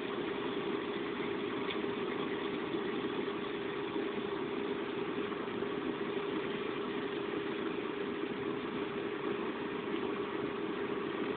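Steady running noise inside a passenger train on the move, with a constant low hum held at one pitch.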